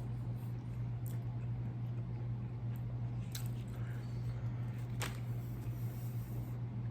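Close-up eating sounds: wet chewing with a few short sharp crunches or smacks, over a steady low hum.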